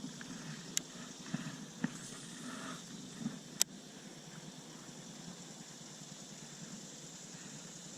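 A few sharp clicks and knocks, three of them standing out in the first four seconds, over a steady hiss.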